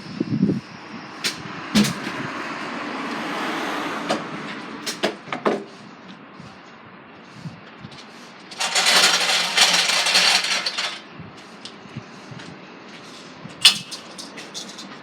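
Knocks and clanks around a lorry, with a rushing noise that swells over the first few seconds and a loud hiss of about two seconds starting near the middle.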